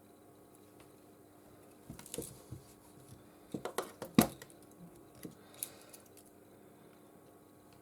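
Light clicks and taps of small phone parts and tools being handled during an iPhone 13 reassembly, most likely flex connectors being pressed on. They start about two seconds in, the sharpest comes about four seconds in, and they stop by about six seconds. A faint steady hum runs underneath.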